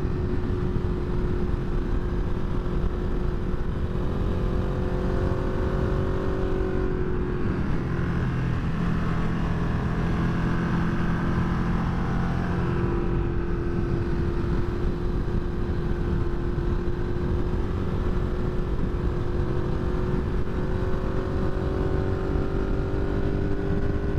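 Motorcycle engine running at a steady cruise under the rider, heard over a constant rush of wind. The engine note drops lower about seven seconds in and climbs back about six seconds later, as the throttle is eased through a curve and opened again.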